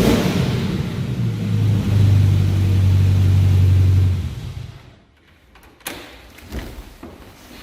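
TVR sports car engine running, its revs stepping up about two seconds in, then switched off about four seconds in. Two light knocks follow.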